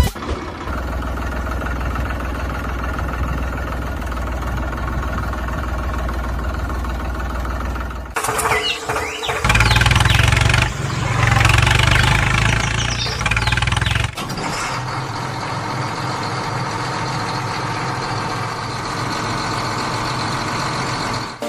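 Tractor engine running steadily, with a louder, rougher stretch of about six seconds in the middle before it settles back to the steady run.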